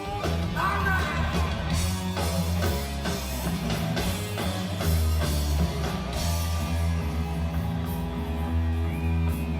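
Heavy metal band playing: distorted electric guitar riffing over a heavy bass line and drums, with no vocals.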